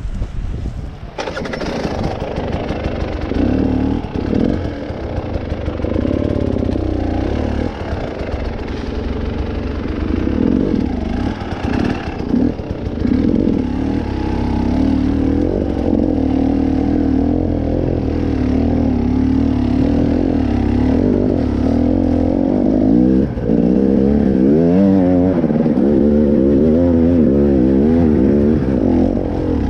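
Vehicle engine running steadily, starting about a second in. Later its pitch rises and falls several times in quick succession as the throttle is worked.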